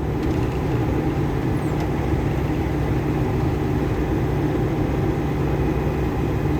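Cummins diesel engine of a GAZelle truck pulling hard uphill in third gear under a load of about four tonnes: a steady, low drone.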